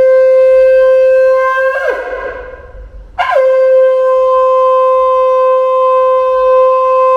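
A conch shell (shankh) blown in two long blasts, each a single steady note that drops in pitch as it dies away. The first blast ends about two seconds in, and the second starts about a second later and is still sounding at the end.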